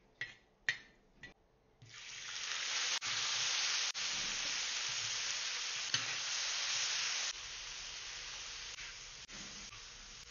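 A metal spatula clicks against a wok a few times. About two seconds in, a loud sizzle starts as blanched lablab bean pods go into hot lard with dried chillies and are stir-fried. The sizzle eases a little about seven seconds in.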